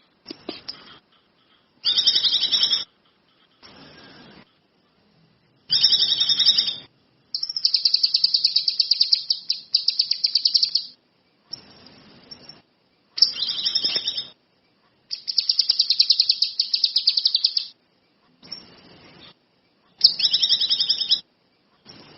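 Kinoi songbird singing in bursts of rapid, buzzy chirping trills, each lasting one to three seconds, with short pauses between them.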